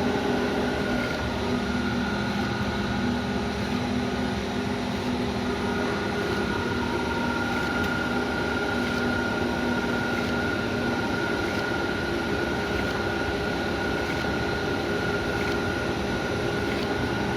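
Macaroni-making machine running steadily: a continuous mechanical hum with a high, steady whine over it.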